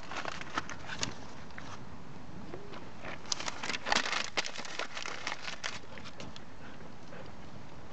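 Bonfire of burning paper crackling in irregular clusters of sharp clicks, busiest in the middle and thinning out to a steady background hiss near the end.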